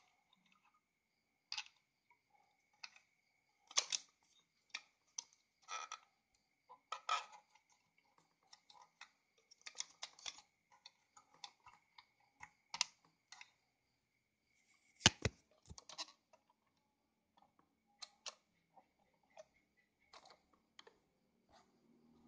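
Irregular clicks and light knocks of metal parts being handled on a zigzag sewing machine as its pattern cam is changed, with a sharper double knock about two-thirds of the way through.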